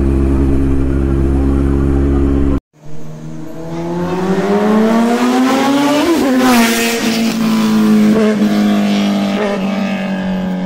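Kawasaki Z900 inline-four through an Akrapovic titanium full-system exhaust: a steady engine note with heavy low rumble, which breaks off suddenly about two and a half seconds in. The engine then rises in pitch as it accelerates, peaks around the middle, and settles into a steady higher note.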